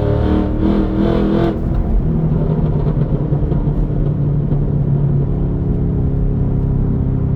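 Supercharged 6.2-litre V8 of a Cadillac CT5-V Blackwing, heard from inside the cabin through long-tube headers, high-flow cats and a Corsa axle-back with the active exhaust valves open in V mode. The engine pulls under throttle for about a second and a half, then settles into a steadier, lower drone.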